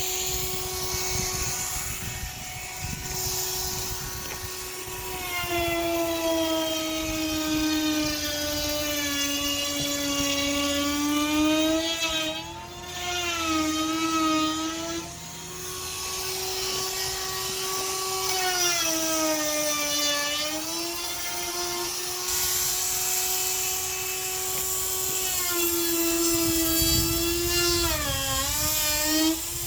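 Handheld electric router with a round-over bit running steadily. Its whine drops in pitch several times as the bit cuts along the wooden edges and climbs back between passes.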